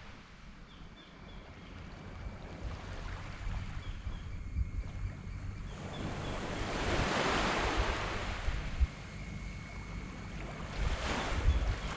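Small tropical waves breaking and washing up a sand beach, the surf rising and falling, with one long wash in the middle and another near the end.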